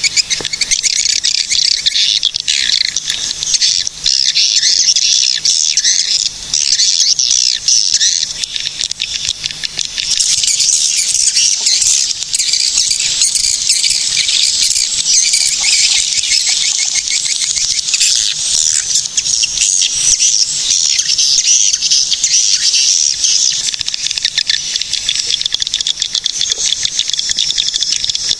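Swiftlets twittering in a dense, continuous chorus of high, rapid chirps.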